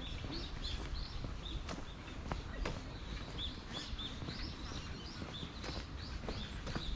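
Small birds chirping in quick, repeated short high notes, several a second, with the scattered steps of someone walking on the path.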